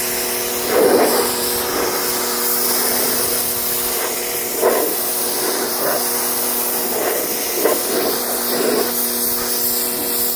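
Pressure washer running, its motor giving a steady hum under the hiss of the water spray as it blasts grime out of car carpet and interior panels, with a few brief louder surges of the spray.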